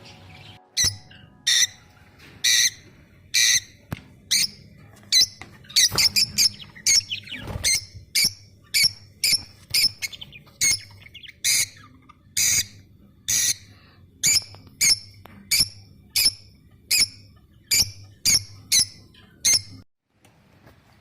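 A bird squawking over and over in short, loud, high-pitched calls, about one a second, which stop shortly before the end.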